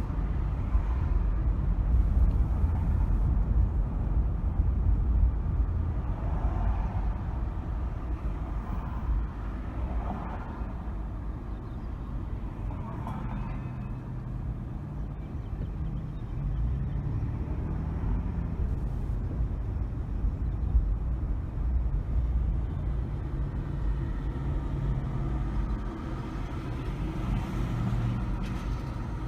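A car driving through city streets: a steady low rumble of engine and tyres on the road, with a few brief swells of higher noise in the first half.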